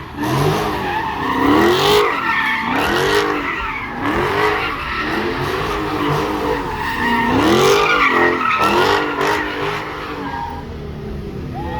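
A car's engine revving up and down about once a second over continuous tyre screeching as the car spins donuts. The screeching eases off near the end.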